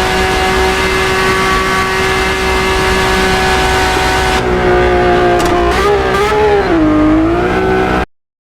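Lamborghini Aventador SVJ's V12 through a Gintani aftermarket exhaust, held at a steady raised rev for about four seconds, then revved up and down a few times before the sound cuts off abruptly near the end.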